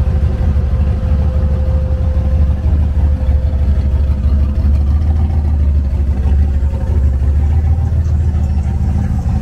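Classic first-generation Ford Mustang convertible's engine running steadily at low throttle as the car rolls slowly past, a deep, even rumble that neither rises nor falls.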